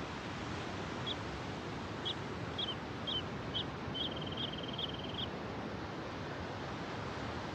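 A small bird singing: five or six short, high chirps about half a second apart, then a quick high trill lasting about a second, over a steady rush of road noise.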